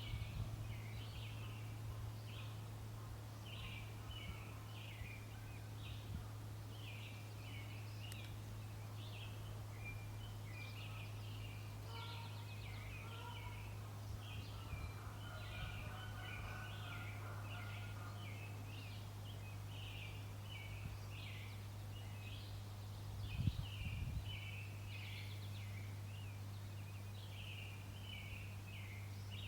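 Birds chirping and singing continuously, many short high notes overlapping, over a steady low hum. A brief low thump about three quarters of the way through.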